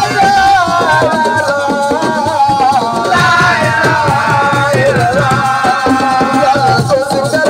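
Live assiko band music: a singer's held, wavering melody over fast, dense hand-drum percussion.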